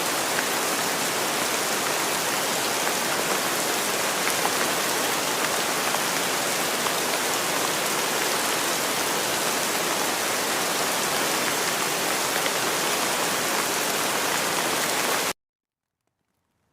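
Steady, dense rainfall hiss with no pauses. It cuts off suddenly to dead silence about a second and a half before the end.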